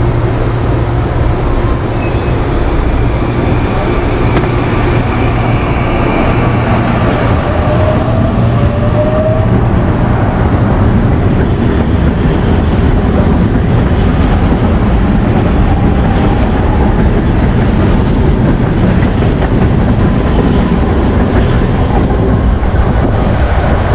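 Electric commuter trains at a station platform: one pulls out with a short rising motor whine about a third of the way in. From about halfway, another train runs close past with steady wheel and rail noise and a run of quick ticking clatter.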